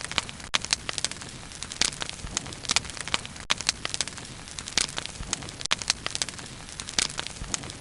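Bonfire burning steadily, its wood crackling and popping in irregular sharp snaps over a constant hiss of flame.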